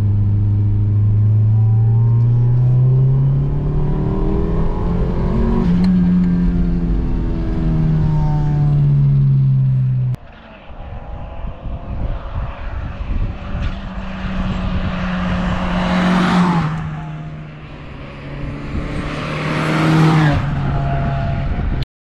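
Turbocharged Nissan Micra 1.3 four-cylinder engine accelerating hard, heard from inside the car, its note climbing in pitch with a gear change about six seconds in. After a cut about ten seconds in, the car is heard from the roadside, accelerating toward and past with a shift midway, loudest near the end.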